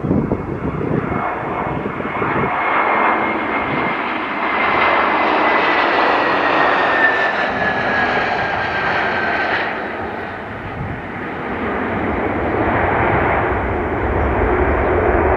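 An airplane passing close by, its engines loud, with a high whine that slowly falls in pitch and stops about two-thirds of the way through. The noise dips briefly, then swells again near the end.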